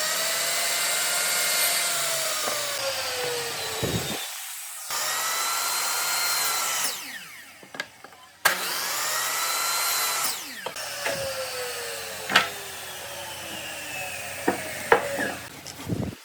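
Electric power tool working wood, its motor whine dropping in pitch under load. The motor stops and starts again twice. Near the end it winds down slowly while the wood knocks sharply a few times.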